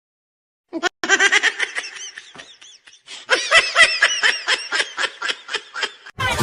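A person laughing in quick, repeated bursts, a meme laugh sound effect. It starts about a second in, pauses briefly, then comes back louder about halfway through.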